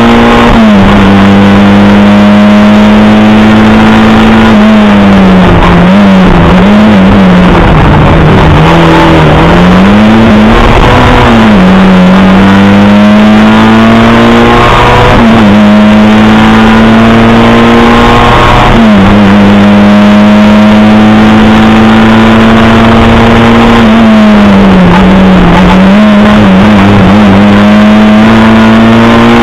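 Lada 2107 rally car's four-cylinder engine, heard loud from inside the cabin, pulling hard at high revs. The revs dip and come back several times as the driver lifts and shifts.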